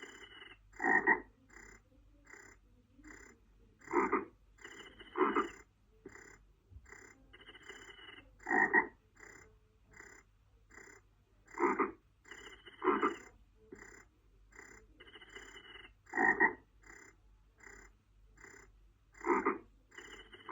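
Frogs croaking: loud croaks come every three or four seconds, often two in quick succession, over a faint, regular chirping about twice a second.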